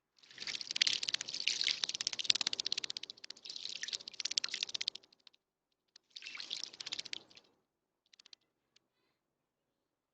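A bird bathing in a shallow bird bath, splashing with rapid wing flutters. There is a long bout of about five seconds, then a shorter one a second later, and a few faint splashes near the end.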